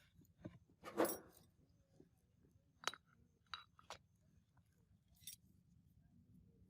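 A few separate metallic clinks and knocks, like tools or small metal parts being handled and set down. The loudest comes about a second in with a brief rattle, and a few lighter knocks follow.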